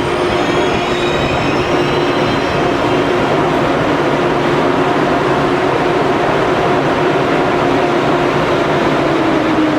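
Train running past at close range: a loud, steady rush of wheels on rails with a humming drive whine. Near the end the whine drops in pitch as the train slows.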